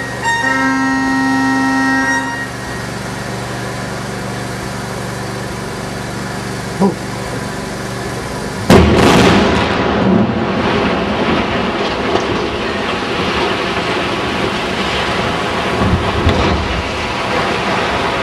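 A long blast of the blasting warning horn ends about two seconds in. Some six seconds later the explosive charges at the base of the factory chimney go off with a sudden loud bang, followed by a long rumble as the brick chimney collapses.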